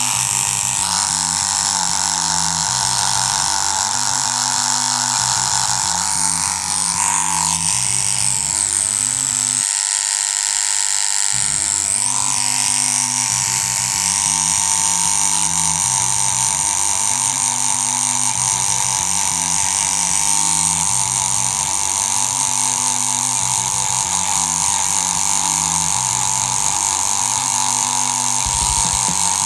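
Tattoo machine running with a steady buzz, over background music with a repeating bassline.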